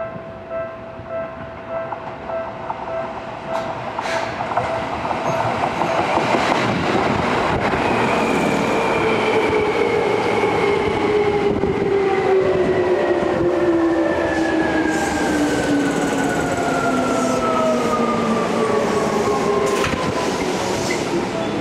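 A yellow Seibu Railway electric commuter train runs into the station, braking. Its motor whine falls steadily in pitch as it slows, over wheel and rail noise and a few sharp clacks. In the first few seconds a repeating tone, about one and a half rings a second, dies away.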